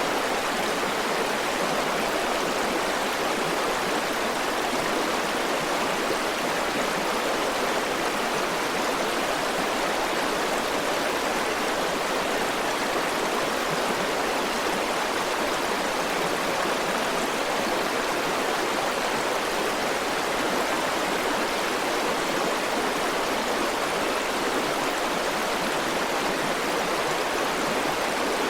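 River water rushing steadily over stones, an even, unbroken flowing noise.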